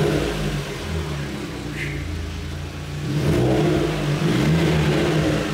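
Fiat 500 Abarth's engine running and revving, swelling louder about three seconds in.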